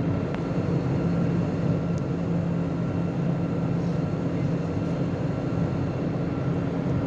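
Airliner cabin noise: the steady drone of the jet engines and rushing air heard inside the passenger cabin, with a low hum and a faint high whine over it.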